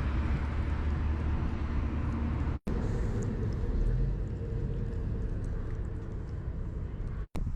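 Steady low road-and-engine rumble of a small camper van on the move, with wind noise over it. The sound drops out briefly about two and a half seconds in and again near the end.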